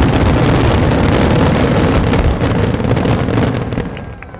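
Fireworks finale barrage: many shells bursting in rapid overlap, merging into a loud continuous rumble with crackling, which dies away near the end.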